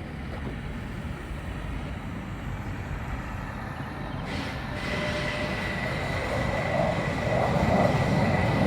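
Jet engine noise from USAF Thunderbirds F-16 fighters in flight: a steady rumble that grows louder over the second half, with a high whine coming in about halfway through.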